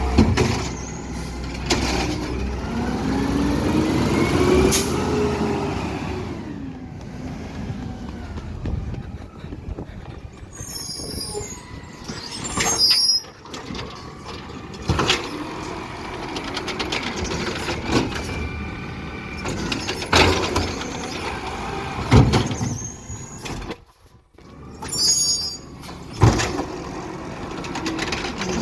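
Garbage truck working: its engine revs up and falls back, amid repeated sharp clanks and short hissing and squealing sounds.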